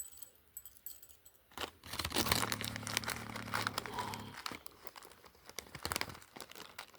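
Packaging being crinkled and torn open by hand: a few light clicks, then about four seconds of dense crinkling. A low hum runs under it for about two seconds in the middle.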